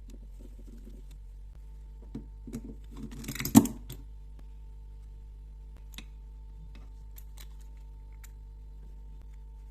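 Small metal carburetor parts and hand tools clicking and clattering on a workbench, with a burst of rattling and one sharp knock about three and a half seconds in, then a few scattered clicks, over a steady hum.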